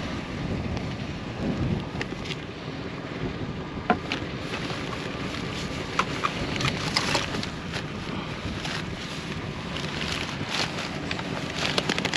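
Wind buffeting the microphone, with scattered clicks, knocks and rustles of plastic bottles and household items being picked up and sorted through, more frequent in the second half.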